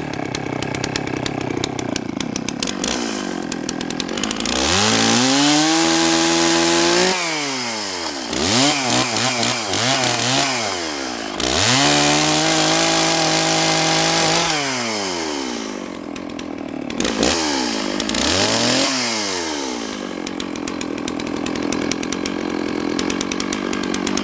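Gas chainsaw bucking a large downed oak log. It idles, then is opened up to full throttle and held there twice for a few seconds at a time. In between, the pitch falls back to idle with several quick blips of the throttle, and it ends idling.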